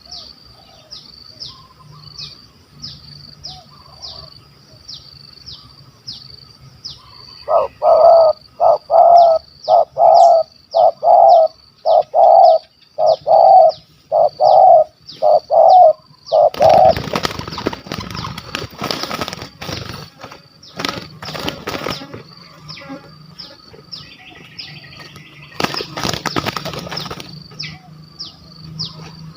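Spotted dove cooing close by: a loud run of about a dozen evenly spaced coos, followed by bursts of wing flapping and rustling. A short high chirp repeats steadily in the background throughout.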